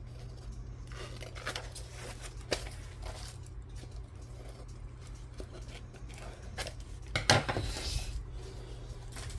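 Paper and craft tools being handled on a table: scattered light taps and clicks, with a louder rustle and clatter about seven seconds in, over a steady low hum.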